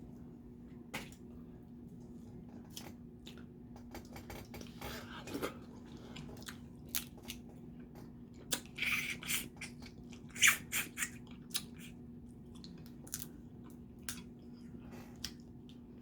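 Shellfish shells being cracked, snapped and peeled up close while eating: scattered sharp cracks and clicks, busiest in the middle, with the loudest crack about ten and a half seconds in.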